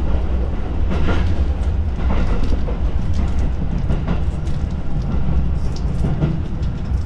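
JR East Joban Line commuter train running, heard from inside the carriage: a steady low rumble of wheels on rail, with a few faint knocks about a second or more apart.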